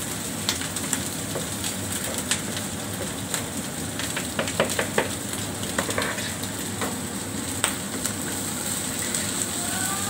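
Steady frying sizzle from rice, vegetables and egg on a hot steel flat-top griddle, with a cluster of sharp clicks and knocks about halfway through as the rice is tipped on and worked with a spatula.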